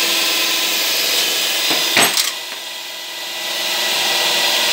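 Power drill running steadily as it bores a hole through a wooden baseboard. About two seconds in there is a knock, and the motor slows and drops in pitch under load for a second or so before picking back up.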